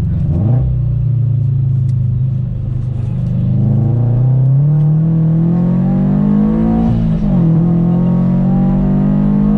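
Supercharged Subaru BRZ's flat-four engine under acceleration: after a brief dip at a gear change near the start, the revs climb steadily for about three seconds, drop sharply at another shift about seven seconds in, then hold steady.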